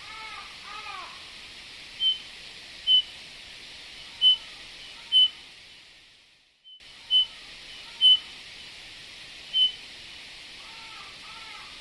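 Eurasian bullfinch calling: a series of about seven short, clear piping whistles roughly a second apart, with softer curved, lower notes near the start, over a steady hiss. Just after the middle the sound fades out and cuts back in.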